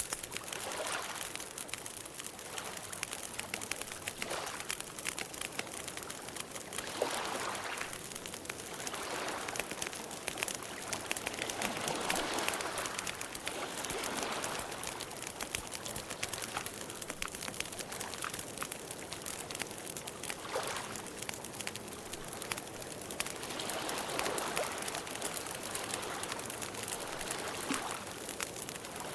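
Campfire crackling with a steady scatter of small pops, over a soft rushing noise that swells and fades every few seconds.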